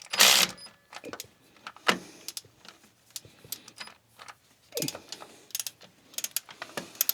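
Scattered metallic clicks and clinks of a hand ratchet and bolts as bolts are run in on a tractor engine's new EGR valve, starting with a short rustling burst.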